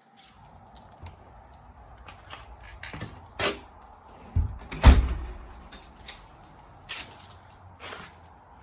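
A few scattered knocks and thumps, with one heavy thump about five seconds in that is the loudest sound.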